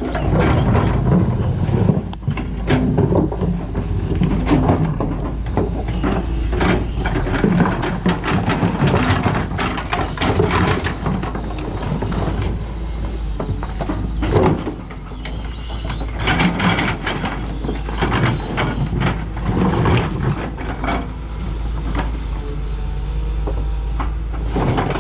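Doosan DX225LCA excavator at work: its diesel engine runs steadily beneath a continual series of clanks, knocks and scraping from the bucket and the material it moves.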